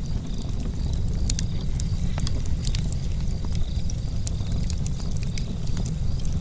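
Charcoal fire crackling with irregular sharp pops and ticks, over a steady low rumble.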